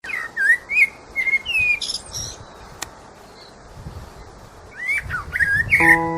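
A bird giving short, gliding whistled chirps in two bouts with a pause between them. Music with steady chime-like notes comes in near the end.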